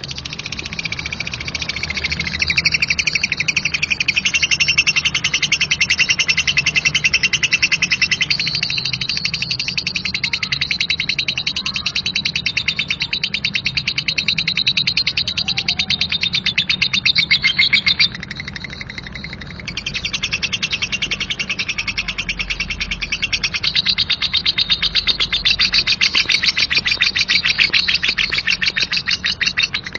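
Lovebird 'ngekek': a long, rapid, rough chattering trill, high in pitch. It drops away for a second or two about two-thirds through, then picks up again.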